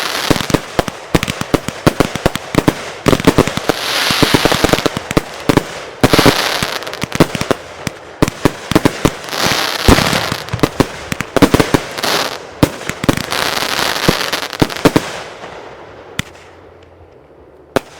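Fireworks going off in quick succession: a dense string of bangs with crackling hiss. It dies away about fifteen seconds in, leaving a couple of lone bangs near the end.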